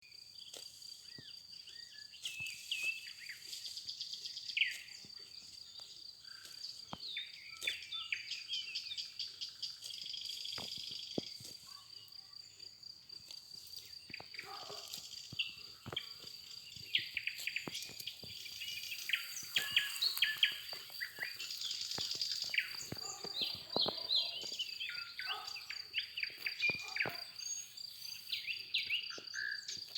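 Songbirds chirping and singing over a steady high insect trill, with scattered sharp clicks.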